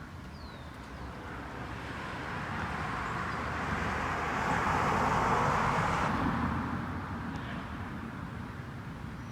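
A vehicle passing by: its road noise swells over about five seconds, peaks a little past the middle, then fades away.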